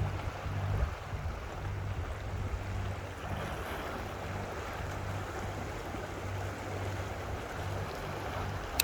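A motor hums steadily at a low pitch under a rushing noise of wind and water, with wind buffeting the microphone. A sharp knock comes at the very end.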